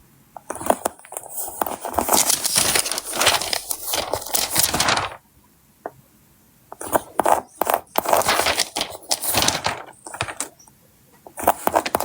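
Sticker sheets and backing paper crinkling and scraping under the hands, with many small clicks: two long stretches of rustling with a short pause between, starting again near the end.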